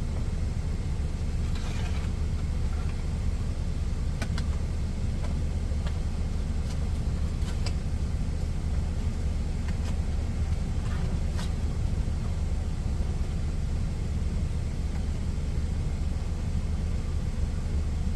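Steady low rumble of an idling truck engine, with a few light clicks near the second, fourth and eleventh seconds.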